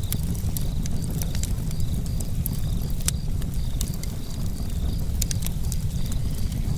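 Campfire burning: a steady low rush of flame with sharp crackles and pops from the burning wood at irregular intervals.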